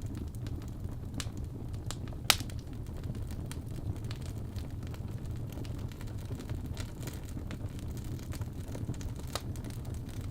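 Wood fire crackling in a fireplace: a steady low rumble of burning flames with scattered sharp crackles, and one loud pop a little over two seconds in.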